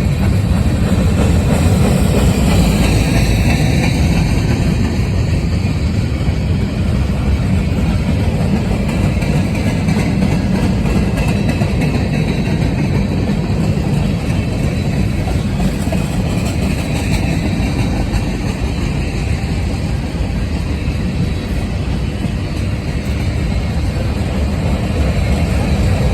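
Freight train cars rolling past on the rails: a steady, loud rumble of wheels and cars, with a faint high whine that dips and rises a few seconds in.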